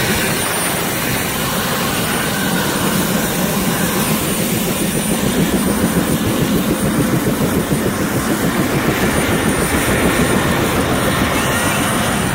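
Helicopter rotor and engine noise heard from inside the cabin: a loud, steady rumble with a fast, regular beat from the rotor.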